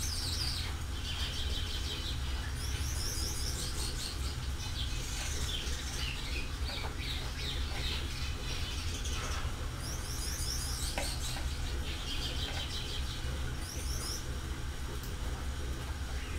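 Small birds chirping in short bursts of quick high notes, several times over, against a steady low hum.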